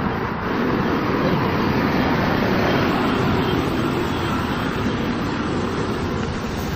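Steady motor-vehicle noise: an engine running with traffic or road noise, holding an even level throughout.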